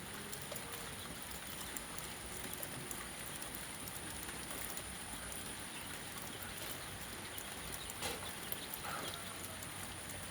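Steady rain falling, an even hiss with scattered drop taps and one sharper tap about eight seconds in. A thin, steady high tone runs above it.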